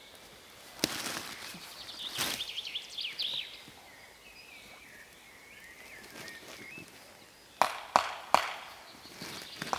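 Small birds chirping and trilling. Near the end come three quick, sharp knocks about half a second apart, an axe chopping wood.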